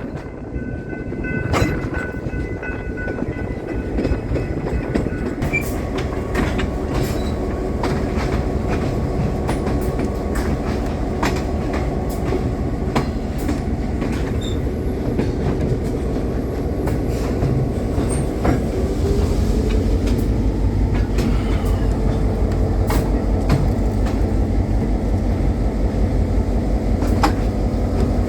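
Train rolling along the track with clicks from wheels crossing rail joints and a faint wheel squeal over a steady rumble. A low engine throb grows louder in the second half.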